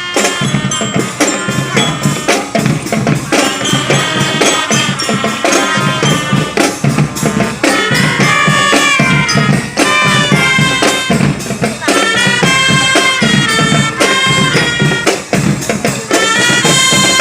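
Marching band playing a tune: drums beating a dense, steady rhythm under a melody line.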